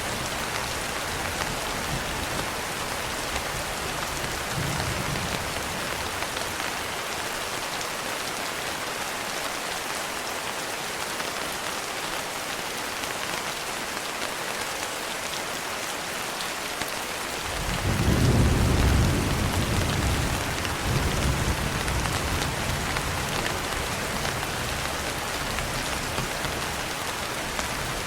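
Steady rain falling, with a low rumble of thunder rolling in about two-thirds of the way through and a second, softer roll a few seconds later.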